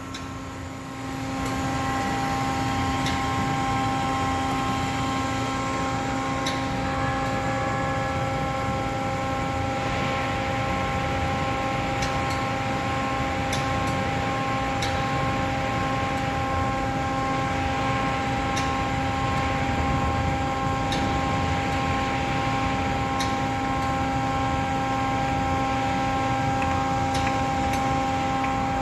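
Streetcar wheel re-tire press running: a steady machine hum with several held tones, coming up about a second in, with occasional sharp ticks.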